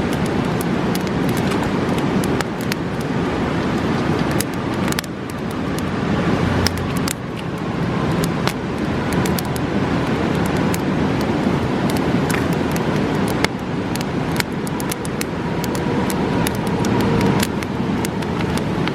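Campfire crackling, with frequent irregular pops and snaps over the steady rush of a fast-flowing river.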